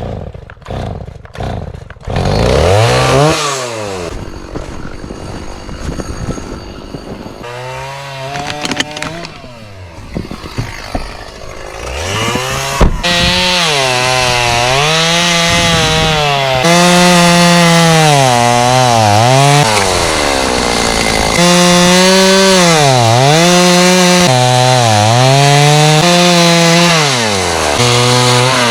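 Stihl 029 two-stroke chainsaw pull-started, catching about two seconds in and revving, then cutting dried jack pine. Its pitch sags and recovers again and again as the dull chain bites under load.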